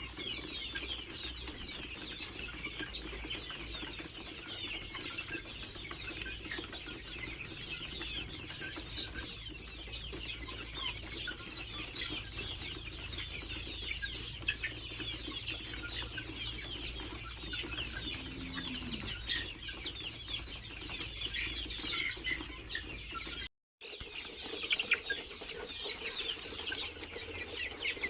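A flock of poultry-farm chickens clucking and cheeping continuously in a dense chorus, with the sound cutting out for a moment near the end.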